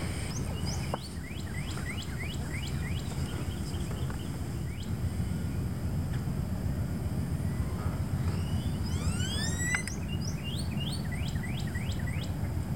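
Birds calling over a steady low rumble: a quick run of short, falling chirps in the first few seconds, several rising whistled sweeps about nine seconds in, then more short chirps.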